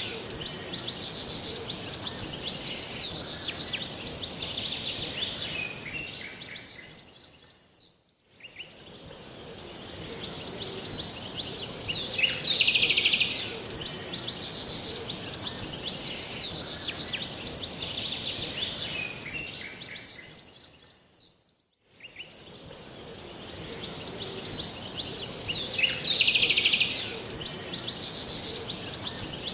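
Birds chirping and calling over a steady high hiss, with a denser burst of calls twice, about fourteen seconds apart. The sound fades out and straight back in twice, as a repeating loop.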